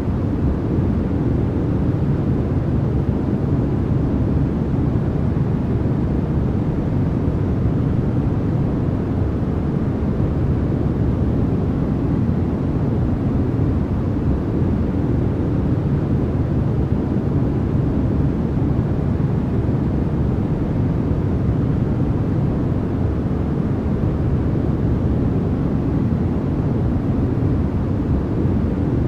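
Continuous sleep-and-focus noise track sold as white noise: an even, unbroken hiss with most of its weight low, heard as a deep rumble rather than a bright hiss.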